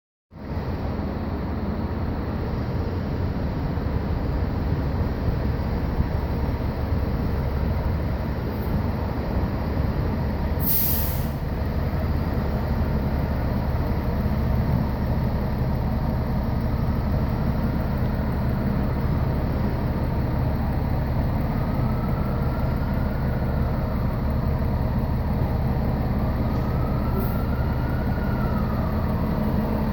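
Fire engine's diesel engine running steadily, with a short air-brake hiss about eleven seconds in. A faint tone rises and falls twice near the end.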